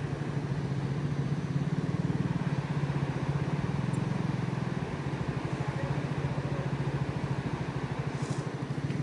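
Motorcycle engine running steadily with a low, fast, even beat.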